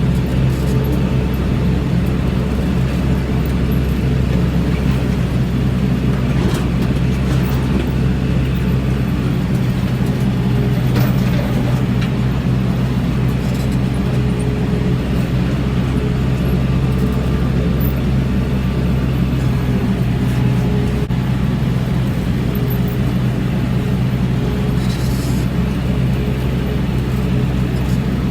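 Tractor engine running steadily at an even speed, a constant deep drone with no change in pitch or loudness.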